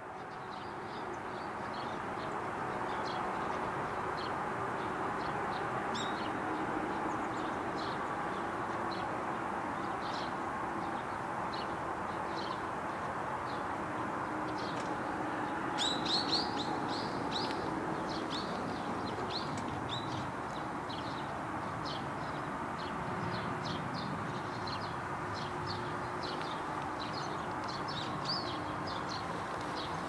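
Small birds chirping, short high calls scattered throughout with a louder cluster about halfway through, over a steady outdoor background hum. It fades in over the first couple of seconds.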